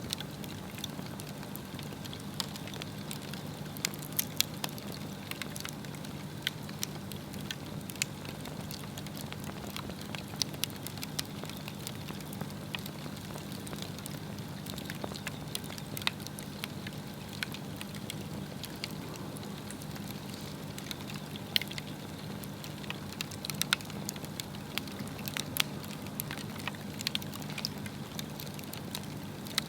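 Swedish torch log fire crackling, with irregular sharp pops and snaps scattered throughout over a steady low hum.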